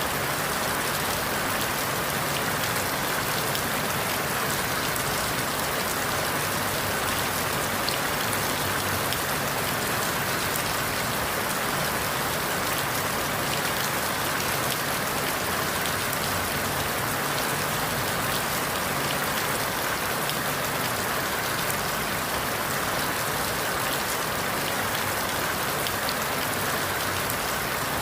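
Steady rain falling through forest leaves, a dense even hiss with many small drop patters and no changes in strength.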